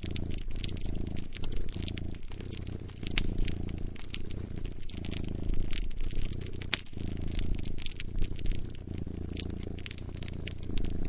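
A cat purring close up, its low purr swelling and easing about once a second with each breath. Over it runs a crackling wood fire with frequent sharp pops and snaps.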